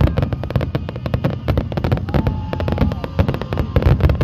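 Aerial fireworks going off in a rapid, continuous barrage of overlapping bangs and crackles, many per second. A brief whistle sounds about halfway through.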